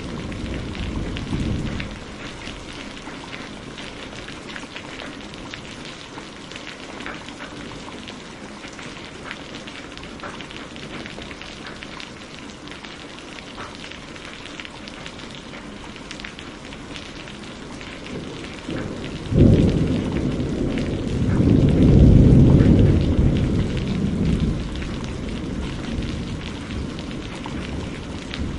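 Steady rain with fine scattered drops. A rumble of thunder dies away near the start, and about two-thirds of the way through a sudden thunderclap breaks into a long low rolling rumble that fades over several seconds.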